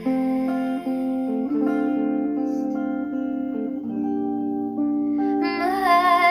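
Guitar ringing out slow, sustained chords that change every second or two. A soft female singing voice comes back in near the end.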